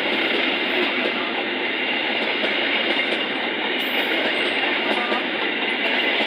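A train passing on the tracks, with a steady, unbroken noise of wheels running on the rails.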